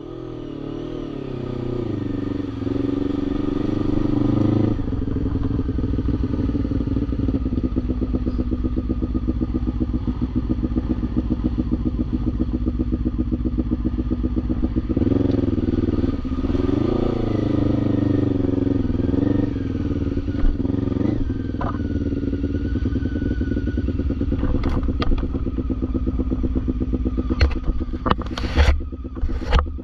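Quad bike (ATV) engine running hard under throttle, its pitch rising and falling as the rider works the throttle. A few sharp knocks come near the end.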